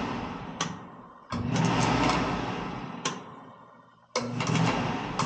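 Oil burner cycled on and off. It starts suddenly twice, about a second and four seconds in, each time the motor running with the igniter's spark buzzing, then fading away. The burner is being started over and over to check that the spark comes on without delay, since a delayed spark can cause nuisance lockouts.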